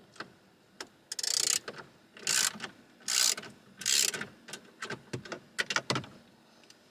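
Ratcheting hand tool worked in four quick strokes about a second in, each a short rasping burst. Scattered sharp clicks and knocks from the tool and the dashboard trim follow.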